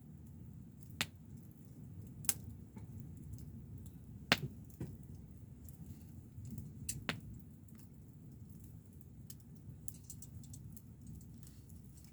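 Wood campfire crackling: a handful of sharp, isolated pops over a low steady rumble of the fire, the loudest a little past four seconds in.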